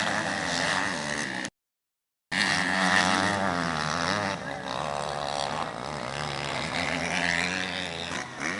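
Motocross bike engines revving, their pitch rising and falling, broken by a sudden drop to silence for nearly a second about a second and a half in.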